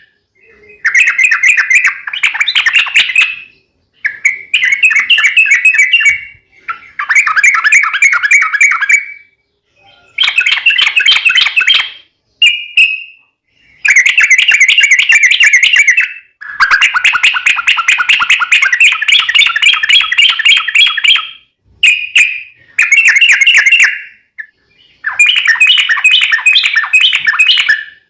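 Yellow-vented bulbul singing its long rolling song: repeated phrases of fast, bubbling chattering notes, each lasting one to five seconds with short pauses between them, the longest nearly five seconds.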